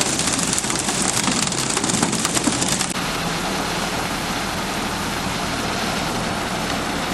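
Self-loading concrete mixer truck running under a loud hissing, crackling rush. About three seconds in the sound cuts abruptly to a steadier, duller machine noise.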